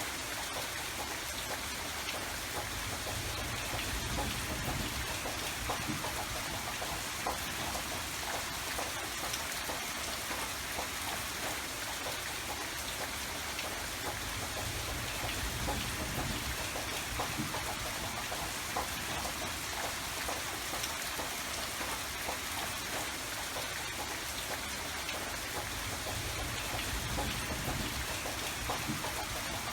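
Steady rain falling, with many individual drops pattering on a surface and a low rumble that swells and fades every several seconds.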